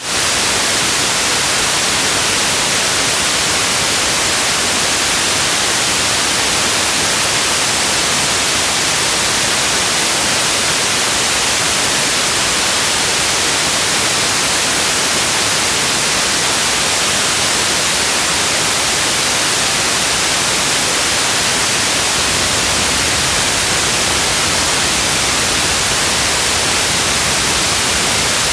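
Steady rain sound: an even, unbroken hiss with no separate drops or thunder.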